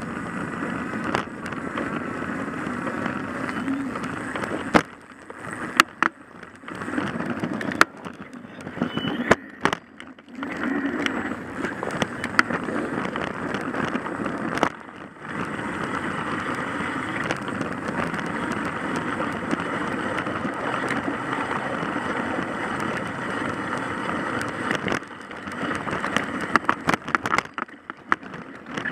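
Vehicle driving on snowy streets: steady road and tyre noise, broken by sharp clicks and knocks a few seconds in and again near the end.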